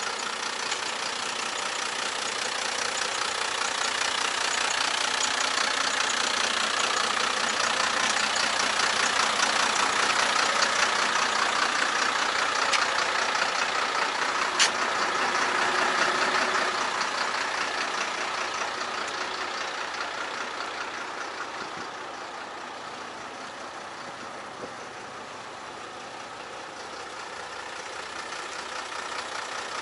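MAN 18.284 truck's six-cylinder diesel engine running steadily, growing louder toward the middle and quieter again later on. There is a single sharp click about halfway through.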